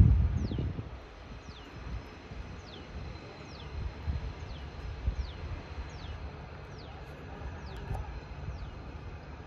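A bird repeating a short, high whistle that falls in pitch, about once a second, over a low rumble that is loudest at the very start.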